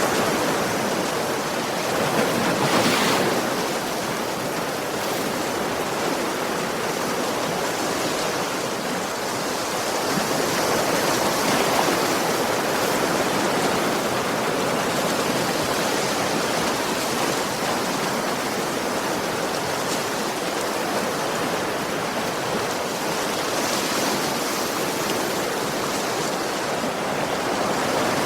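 Ocean waves breaking and washing on a shore in a steady rush, swelling a little every several seconds.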